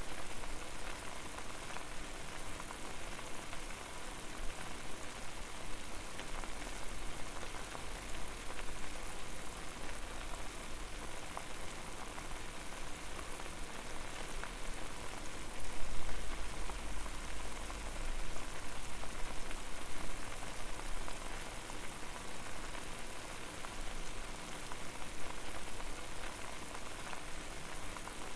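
Water boiling over a fire: a dense, steady bubbling and crackle. A low rumble swells for a few seconds about halfway through.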